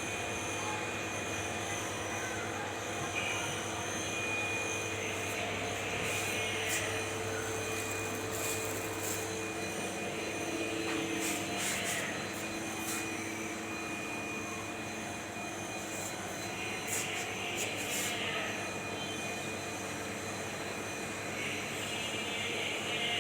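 Steady mechanical hum with a few faint high tones, and brief faint chirps and clicks several times above it.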